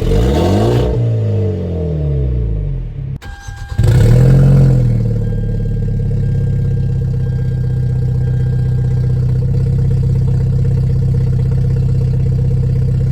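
Turbocharged Hyundai Genesis Coupe's engine and exhaust: revs fall away over the first few seconds, then after a short break the engine starts about four seconds in, flares up and settles into a steady idle.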